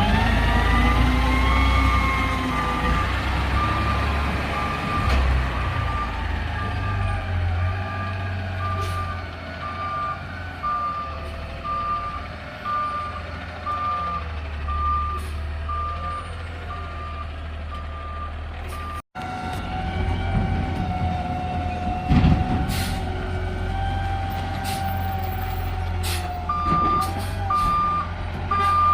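Garbage truck backing up, its reverse alarm beeping about once a second over the diesel engine's rumble. After a brief dropout, the engine runs with a steady whine and one loud clank, and the reverse beeping starts again near the end.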